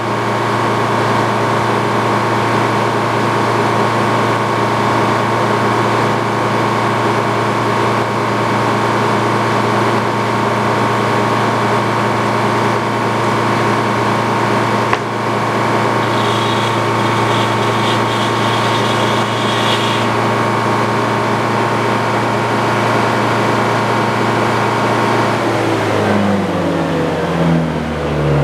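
Antique Frick sawmill and its power unit running at a steady speed with a constant mechanical drone, the pitch shifting and wavering near the end.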